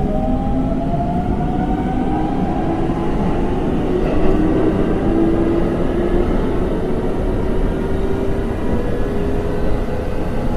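Train running: a steady, loud rumble with a faint whine that slowly rises in pitch.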